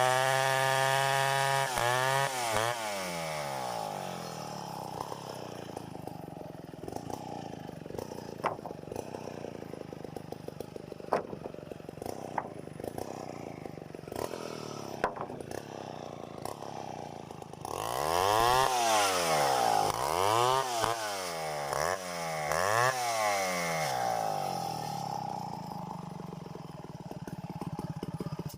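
Two-stroke chainsaw revved to full throttle and dropped back, then running at a lower pitch for a long stretch with scattered sharp knocks. About two-thirds of the way in it is revved up and down several times, then runs steady and stops abruptly at the end.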